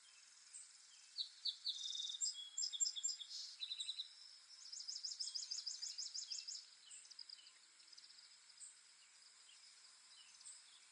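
Songbirds singing: a series of short high chirps starting about a second in, then a fast trill of evenly repeated notes lasting about two seconds, with scattered single chirps afterwards. A faint steady high hiss lies underneath throughout.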